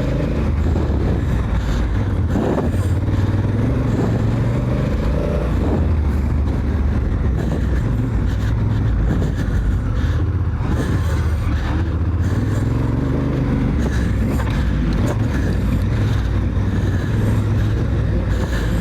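Honda Africa Twin's parallel-twin engine running hard around a motocross track, the revs rising and falling steadily.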